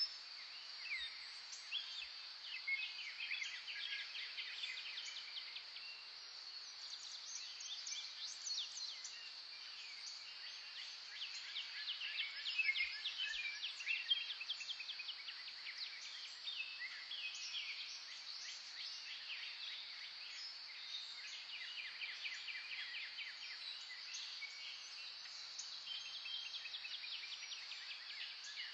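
A dense chorus of many wild birds chirping and trilling at once, with fast runs of short notes overlapping throughout, over a steady high-pitched drone.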